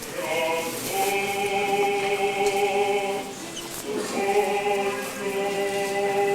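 Orthodox church choir singing unaccompanied in long held chords; one phrase ends about three seconds in and a new sustained chord begins about a second later.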